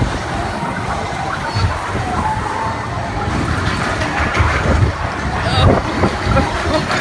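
Spinning roller coaster car rolling along its track with a steady low rumble, with people's voices mixed in.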